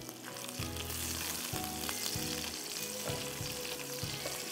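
Sliced onion sizzling in hot oil in a wok with garlic and cashews, stirred with a spatula in a string of short strokes.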